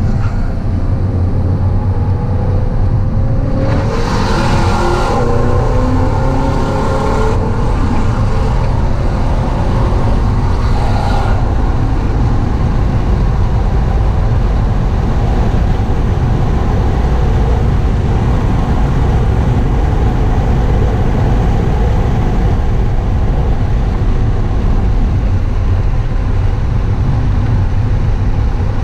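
HSV Clubsport's supercharged 6.2-litre LSA V8 under hard acceleration, heard from inside the cabin. Its pitch climbs over the first ten seconds or so, then it settles into a steady, loud drone at high speed.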